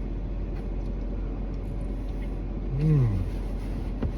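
Steady low background hum, with a man humming a short closed-mouth "mmm" about three seconds in that rises and falls in pitch, while eating a Lunchable. A faint click comes near the end.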